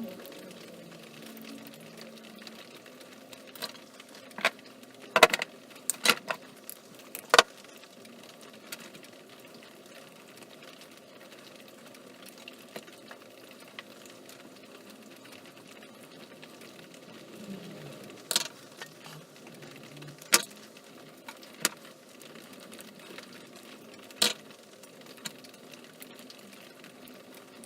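Scattered sharp clicks and taps, a cluster of them about five to seven seconds in and a few single ones later, over a faint steady hum.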